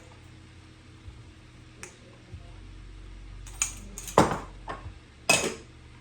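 A metal cooking utensil knocking and clinking against cookware several times, the loudest knock about four seconds in, over a faint steady low hum.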